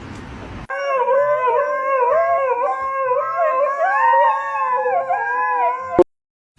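An animal howling: one long, wavering, pitched call that starts abruptly about half a second in and is cut off sharply near the end.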